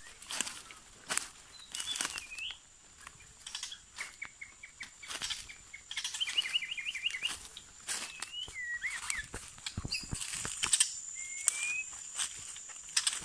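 Songbirds calling in short whistled chirps and sliding notes, with a quick trilled run in the middle. Rustling and clicks of movement through leaf litter and undergrowth run beneath, and a steady thin high tone sounds throughout.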